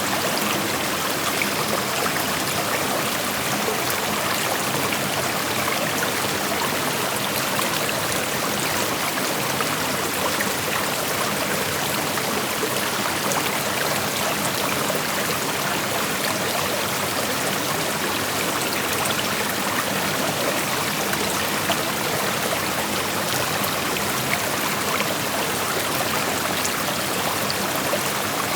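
Creek water flowing over rocks, a steady rushing with fine trickling and splashing detail.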